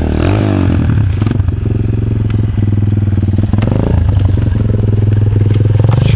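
Enduro dirt-bike engine idling steadily at low revs, with an even, rapid beat of firing pulses.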